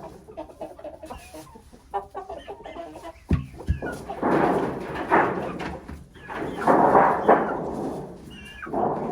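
Chickens clucking, then squawking loudly three times, about four and seven seconds in and again at the end. A couple of dull thumps come just before the first squawk.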